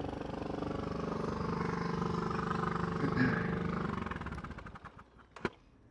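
Motorcycle engine idling steadily, then switched off about four seconds in and dying away, with a sharp click near the end.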